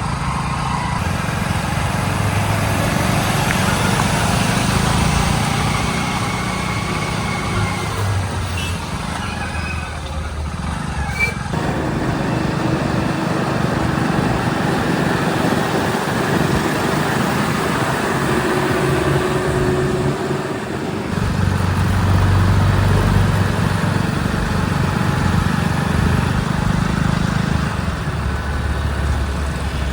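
Heavy diesel engines running at a work site, the engine note changing several times as the machines work.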